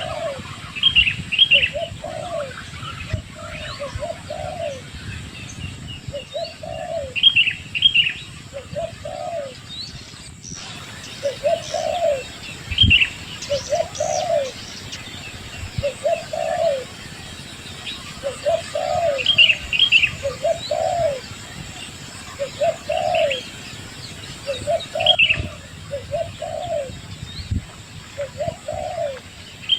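A dove cooing in short, repeated notes, about one a second, while another bird gives brief higher-pitched chirps every few seconds.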